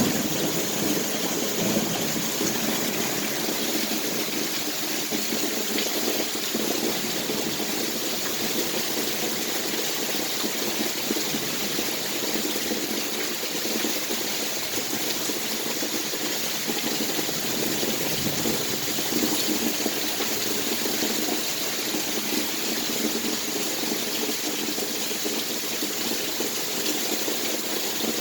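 Heavy storm rain pouring steadily, a continuous rush of falling and running water.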